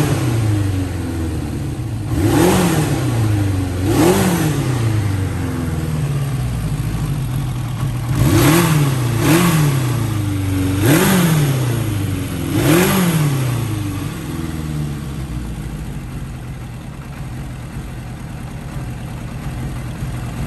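Honda CB900F's air-cooled inline-four engine with an aftermarket muffler being blipped on the throttle about six times, each rev rising sharply and falling straight back, then settling into a steady idle for the last several seconds.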